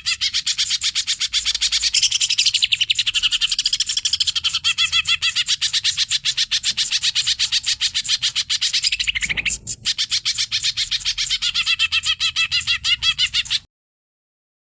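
Cucak ijo (green leafbird) singing a long, fast, continuous chattering song of rapid repeated notes. It falters briefly past the middle and breaks off about a second before the end.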